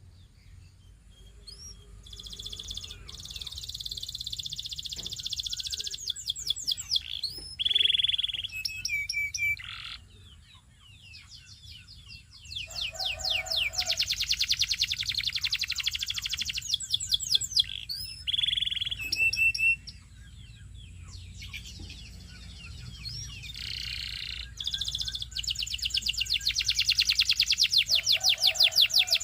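Belgian singing canary singing a long, continuous song of fast rolling trills of rapidly repeated notes, broken by held whistled notes and a few low, deep notes. The song eases off briefly twice before building again to loud, rapid trills near the end.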